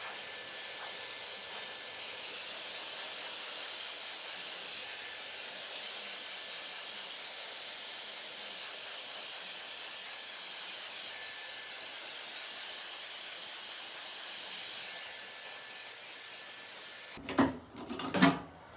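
Steady hissing rush that cuts off abruptly about 17 seconds in, followed by two short loud sounds near the end.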